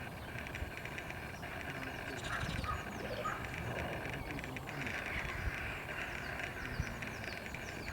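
Birds calling faintly in short chirps over a steady outdoor background hiss.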